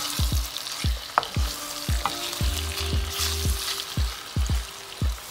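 Marinated chicken breast cubes sizzling in hot oil in a wok while a wooden spatula stirs them, with a sharp click about a second in. Under the sizzle a low thud repeats about twice a second.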